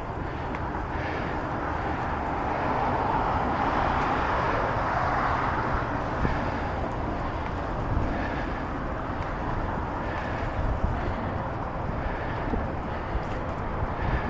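Steady outdoor traffic and wind noise heard while riding a bicycle, with a louder rushing swell that builds and fades between about two and six seconds in.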